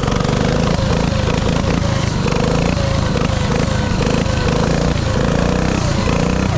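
Dirt bike engine running steadily, its pitch wavering slightly up and down.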